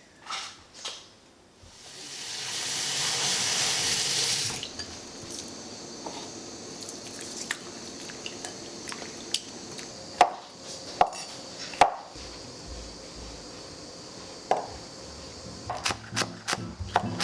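Kitchen tap running for about three seconds, then a few sharp clinks and knocks of kitchenware.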